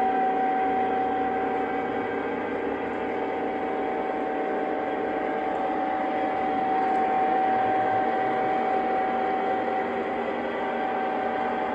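Lionel Santa Fe E8 O-gauge model diesel locomotive running on three-rail track: a steady electric hum with one high, even tone over a rolling noise.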